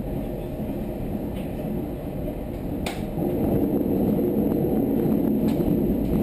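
Wellington suburban electric multiple unit running along the track, heard from the driver's cab: a steady low rumble of wheels on rail. A single sharp click comes about three seconds in, after which the rumble grows a little louder.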